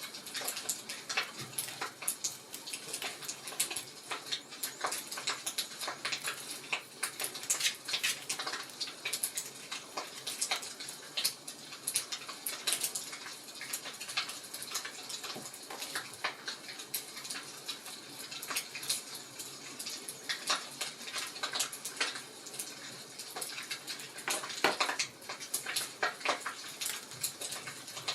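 Fire in a fireplace crackling, with many irregular sharp pops and snaps over a soft steady hiss.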